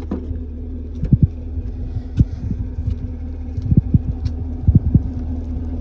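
A 2016 Chevrolet Camaro SS's 6.2-litre V8 idling with a steady low rumble, with irregular soft thumps scattered through it.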